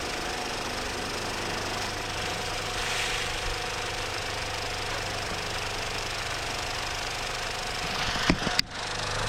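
Homemade workshop tool driven by a recycled washing machine motor, running steadily with a low hum and a dense hiss. Near the end there are two sharp knocks, then a brief dip in the sound.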